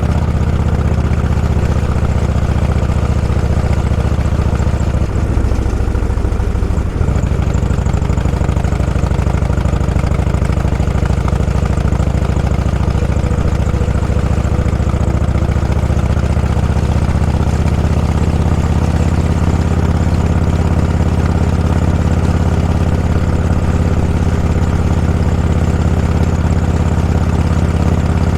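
Motorcycle engine running steadily at low speed, a deep even drone, with a brief change in its note about five to seven seconds in.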